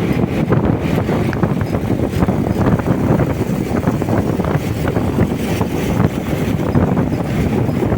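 Wind rushing over the microphone of a moving motorcycle, an even, loud rush with the bike's engine and road noise mixed underneath.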